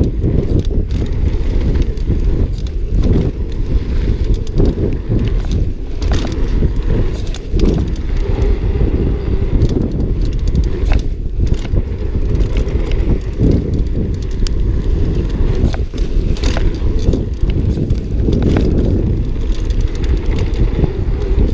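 Mountain bike riding a rough trail: a continuous rumble of tyres over the ground, with frequent rattles and knocks from the bike over bumps.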